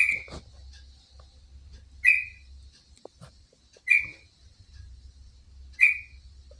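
Sparrow chirping: four short, loud, identical chirps about two seconds apart, over a faint steady low hum.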